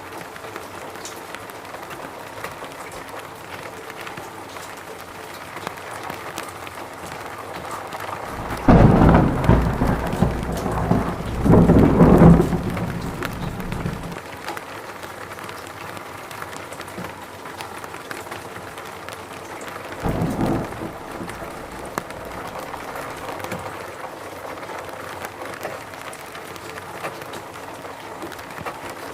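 Steady rain falling, with a long roll of thunder about a third of the way in that peaks twice, and a shorter, fainter rumble about two-thirds of the way through.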